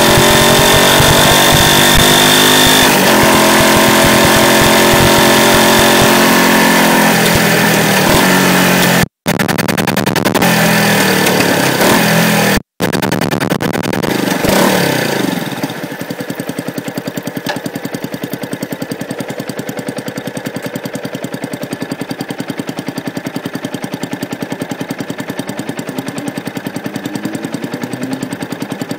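Yamaha YZF-R125's single-cylinder four-stroke engine, heard from a microphone under the bike, with revs falling in steps as the motorcycle slows. The sound cuts out briefly twice. About halfway through, the engine settles to a quieter, steady idle with a fast even pulse.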